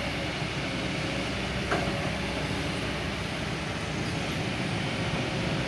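Kobelco SK200 Super X excavator's diesel engine running steadily under work, with a light knock about two seconds in.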